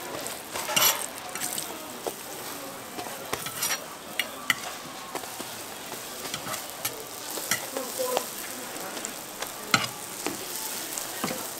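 Hotteok frying in oil on a flat griddle, a steady sizzling hiss, with scattered sharp clicks from cooking tools.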